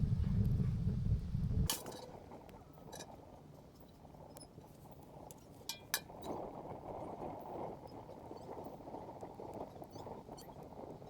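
Fire crackling: scattered sharp pops and clicks over a faint hiss, after a low rumble that cuts off about two seconds in.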